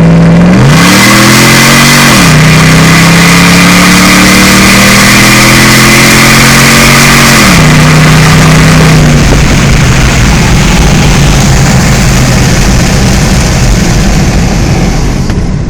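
5.7 L Hemi V8 of a 2006 Jeep Grand Cherokee running at wide open throttle through a resonator-deleted custom side exhaust, heard with the windows down. Its pitch climbs and drops sharply with upshifts about one and two seconds in, then climbs slowly until the revs drop near eight seconds in. For the last several seconds loud wind and road noise cover the engine.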